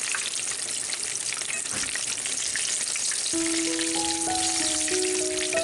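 Eggplant pieces deep-frying in hot oil, giving a steady sizzle. Background music with held notes comes in a little past halfway.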